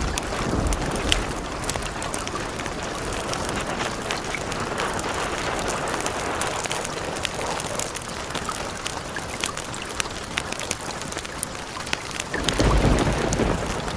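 Steady rain with scattered sharp crackles. A low rumble of thunder swells near the end.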